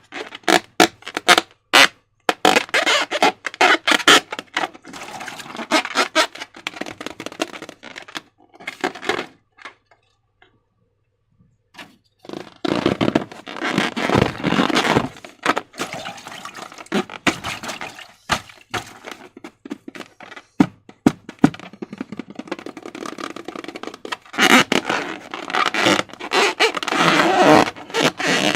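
Slime being worked with transparent balloons: a busy run of sharp sticky clicks, crackles and squelches, which stops for about two seconds a third of the way in.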